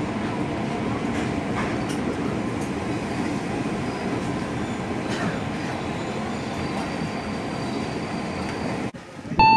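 Inside the carriage of a KRL commuter electric train as it runs along the rails: a steady rumble of wheels and car body, with a few faint clicks. The sound cuts off abruptly near the end, and a chime of steady bell-like tones begins.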